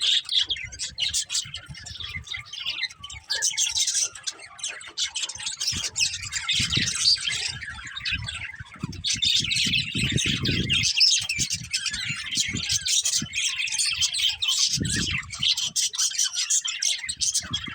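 Budgerigars chirping and chattering without pause, many quick high calls overlapping. A low rumble comes and goes underneath a few times.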